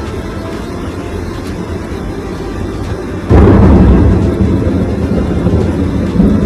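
A thunderclap during a heavy rainstorm. A sudden loud crack about three seconds in turns into a long low rumble, over a steady low rumble of the storm beforehand.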